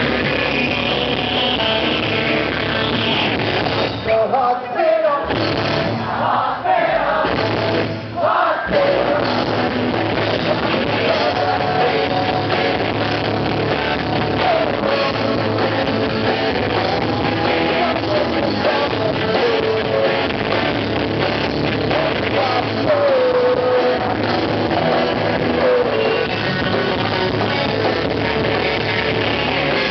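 Rock band playing a song with a singer's voice carrying the melody, with brief dips in level about four and eight seconds in.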